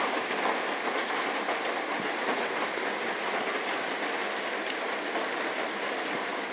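Hail and heavy rain pelting down: a steady, dense clatter of countless small impacts.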